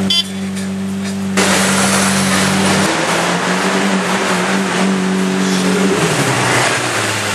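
Lamborghini V12 engine and exhaust running loud, with a sudden jump in loudness about a second and a half in.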